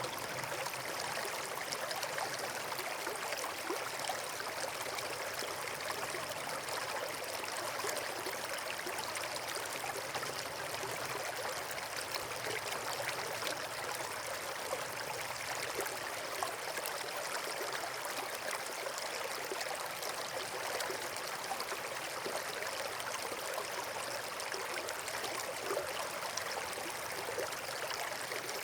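Steady rush of running water, as from a stream or small waterfall, even throughout with fine splashing detail.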